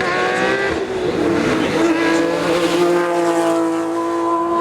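Hillclimb race car engine under hard acceleration: the revs climb, drop at a gear change a little under a second in, then hold a high, steady note.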